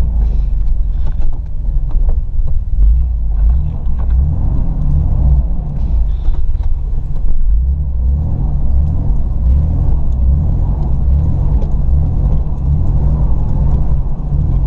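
Steady low rumble of a 1989 Chevrolet S10 Blazer's 4.3-litre V6 engine running, heard from inside the cab.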